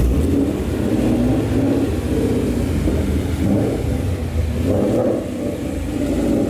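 Ford Mustang GT's V8 running through long-tube headers, an X-pipe and Roush axle-back mufflers, its engine note rising and falling several times.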